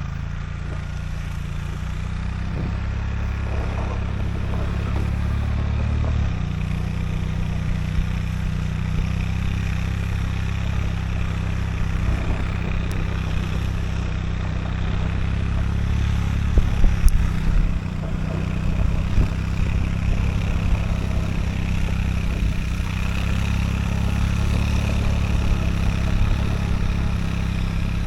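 Side-by-side UTV fitted with snow tracks, its engine running at a steady pitch while it tows a snow tube, with a short cluster of knocks and bumps about two-thirds of the way through.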